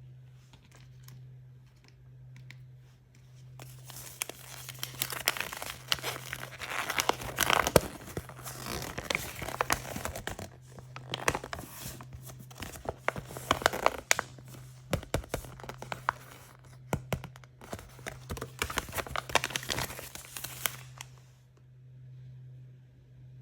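Plastic packaging being torn open and crinkled by hand: a dense crackling of tearing and crumpling that starts about four seconds in and stops a couple of seconds before the end, over a low steady hum.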